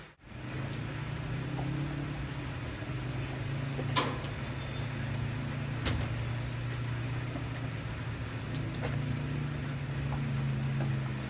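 Motorcycle engine running at low, steady revs, its hum swelling and easing a little, with a sharp click about four seconds in and another near six.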